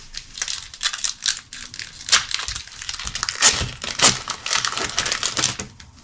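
Foil wrapper of a Pokémon card booster pack crinkling and crackling in the hands, in quick irregular crackles, as it is handled and torn open.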